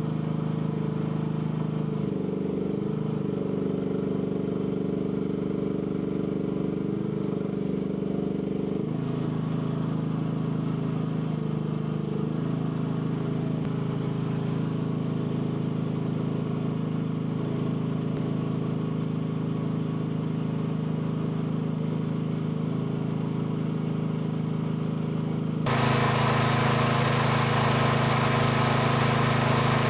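AGT L12 mini excavator's small engine running steadily, dipping briefly in pitch a few times as the hydraulics take load. Near the end the sound turns suddenly louder and harsher.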